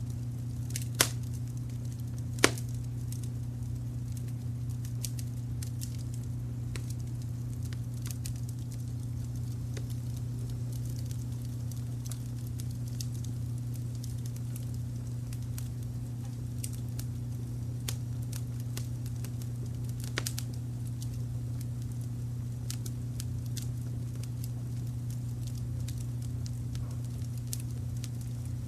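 Wood fire crackling with scattered small pops and two loud snaps in the first few seconds, another pop about twenty seconds in, over a steady low brown-noise bed.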